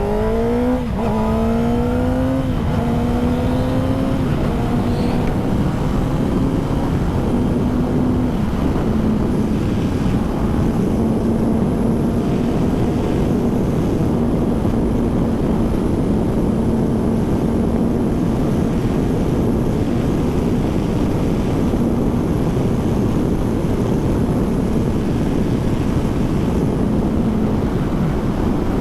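Kawasaki ZX10R's inline-four engine pulling in gear, its note climbing for the first few seconds and then holding steady at cruising speed, with heavy wind rush over the microphone.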